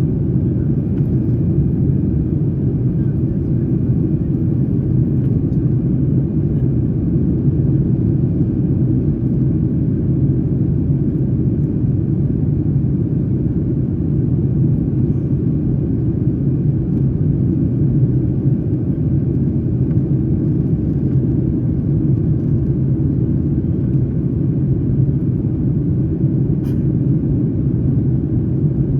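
Steady low rumble of cabin noise aboard a Boeing 737-9 MAX airliner.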